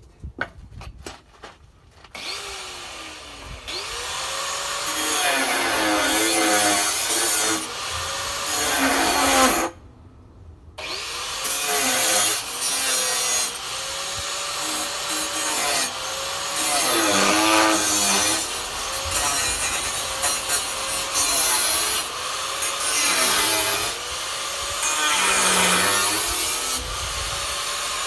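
A power tool cutting a row of relief notches into a sheet-metal repair strip. Its motor pitch sags under each cut and recovers between cuts. It stops briefly about ten seconds in.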